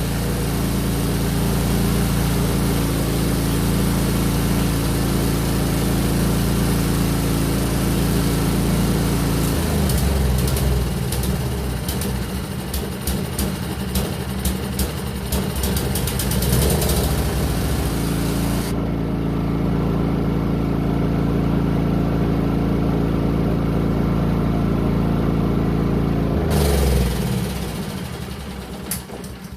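Briggs & Stratton 163cc single-cylinder engine of a Murray snowblower running steadily, its speed shifting about a third of the way in, with a hiss over it that stops about two-thirds in. Near the end the engine is shut off and runs down to a stop.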